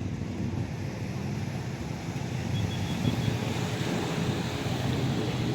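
Wind rumbling on the microphone, a steady low noise that grows a little louder toward the end.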